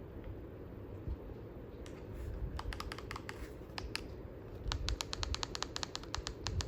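A Kensgrove DC ceiling fan runs with a steady low whoosh of moving air. From about two seconds in, its remote's buttons are clicked rapidly many times, stepping the fan down from its top speed.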